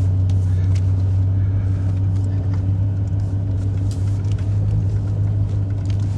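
Steady low drone of a car's engine and road noise, heard from inside the cabin.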